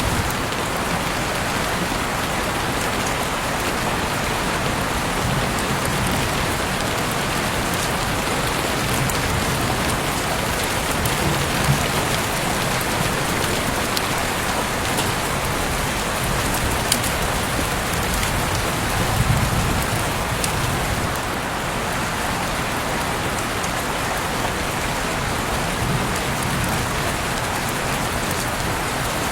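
Heavy rain falling steadily, with occasional sharper drop taps and a few brief low rumbles.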